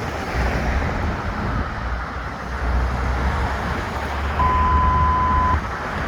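Steady low vehicle and road rumble, with a single steady one-second beep about four and a half seconds in: a radio alert tone ahead of a dispatch call.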